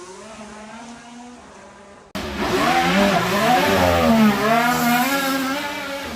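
A supercar engine fading away. Then, after an abrupt cut about two seconds in, a loud supercar engine revs hard and accelerates, its pitch rising and falling several times before easing off near the end.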